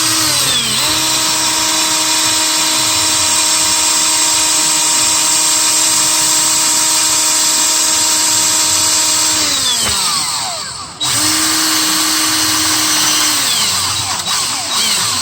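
Electric drill running under load, drilling out a seized EGR bolt: a steady motor whine for about nine seconds that winds down, then a second shorter run about eleven seconds in that winds down again.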